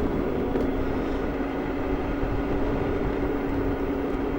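Super Soco TC Wanderer electric motorcycle riding at a steady speed: an even motor whine over wind and road rumble.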